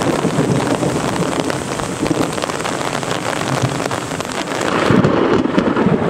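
Heavy thunderstorm rain pouring down, a dense patter of drops striking surfaces close to the microphone. About five seconds in it swells louder and deeper.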